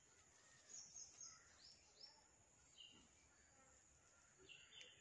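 Faint birdsong: short, high chirps that slide downward, coming in small quick runs over a quiet background.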